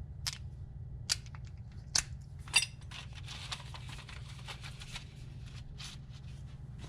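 Scattered sharp clicks and taps of a hand tool and metal parts being worked while wires are fastened to a starter's terminals, over a steady low hum.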